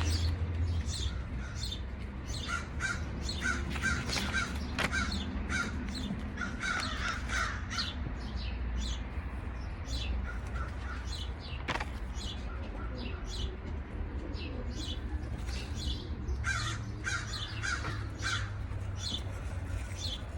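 Birds calling over and over in short, harsh calls, with a steady low hum underneath.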